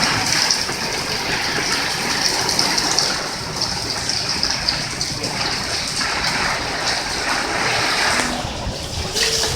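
A hailstorm: hail and heavy rain coming down hard, a steady dense hiss of many small impacts.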